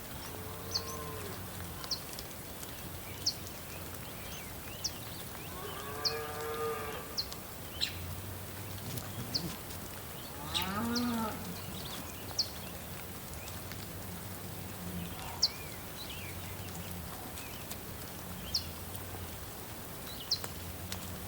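Cattle mooing, with two long calls about six and eleven seconds in, the second rising then falling in pitch. Short high chirps recur every second or so underneath.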